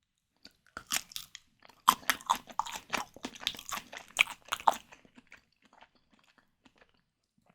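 Close-miked chewing of white tiger prawns: a rapid run of wet, crackly bites and mouth clicks for about four seconds, thinning to faint smacks near the end.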